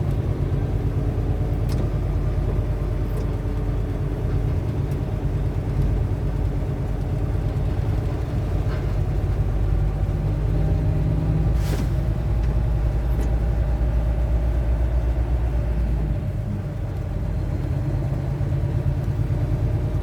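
Steady low engine and road rumble inside a semi-truck cab while it drives slowly through snow behind a snowplow, with a few faint clicks.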